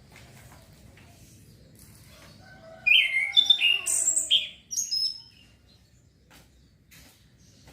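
Male orange-headed thrush singing one phrase of varied quick whistled and chattering notes about three seconds in, lasting roughly two and a half seconds; otherwise only faint clicks and low background noise. It is a young male's still-developing song.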